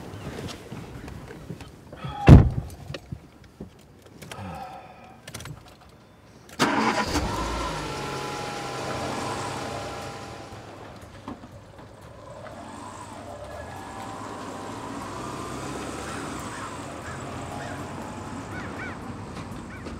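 A single heavy thump about two seconds in. Then a car engine is started about six and a half seconds in and settles into a steady idle, heard from inside the car.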